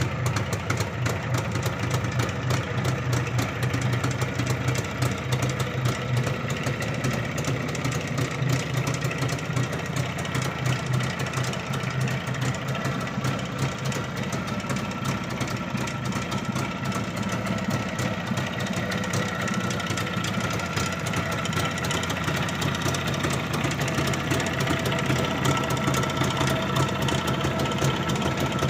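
Jawa 638 Lux motorcycle's 350 cc two-stroke twin engine idling steadily, with rapid, even exhaust pulses; it runs a little louder in the last few seconds.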